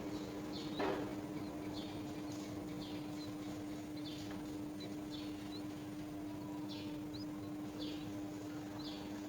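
Bird chirps: short, high notes repeating about once a second over a steady low hum, with a single knock about a second in.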